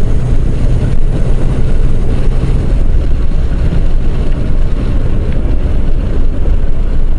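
Motorcycle engine running while riding, under loud wind rush on the rider's microphone; a steady low engine hum fades out about three seconds in, leaving the rumble of wind and road.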